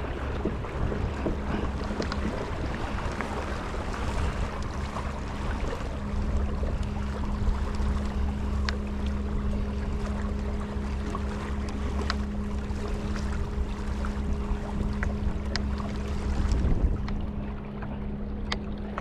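Wind rumbling on the microphone and water around a kayak on the sea, with a steady low hum and scattered small ticks.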